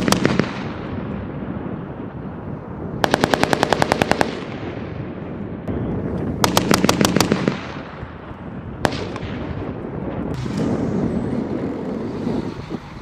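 Belt-fed machine gun firing bursts at about ten rounds a second: the tail of one burst at the start, a burst of about a dozen rounds about three seconds in, another of about eight rounds a few seconds later, and a single shot about nine seconds in. A steady low rumble runs underneath.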